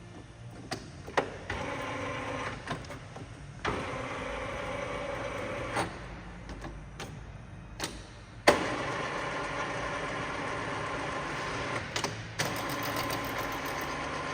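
VDF Boehringer DUE lathe running under power with a steady gear whine from its drive. A few clicks come before it starts, it eases off for a couple of seconds mid-way, and it picks up again with a sharp clunk about eight and a half seconds in.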